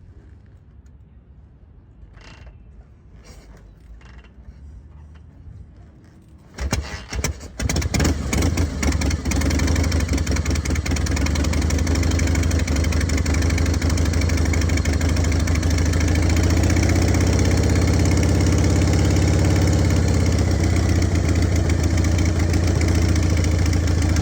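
1953 Harley-Davidson Panhead V-twin being kick-started: a few faint clicks, then about six and a half seconds in the engine catches, runs unevenly for a couple of seconds, and settles into steady running.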